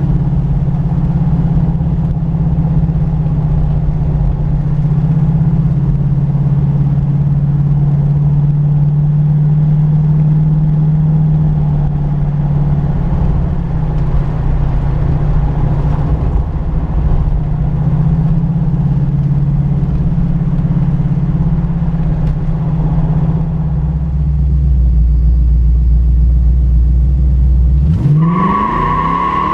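Classic car's engine running steadily while cruising, heard from inside the car, with a deep low rumble building a few seconds before the end. Near the end the engine pitch swings sharply up and down and a brief high tone joins in.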